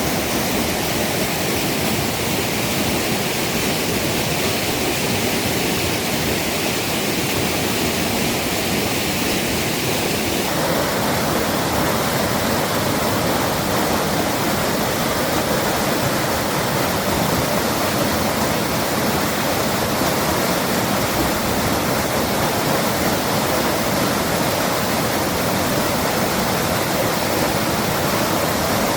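Rain-swollen mountain stream rushing hard: a steady, loud wash of fast-flowing water over rocks, swollen by heavy rain. The tone of the rushing shifts abruptly about ten seconds in.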